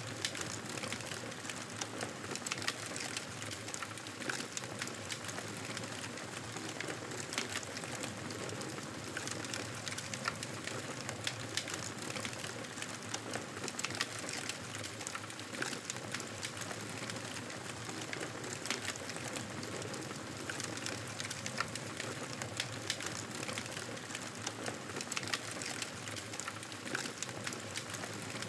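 Campfire burning, with a steady hiss and frequent sharp crackles and pops of burning wood.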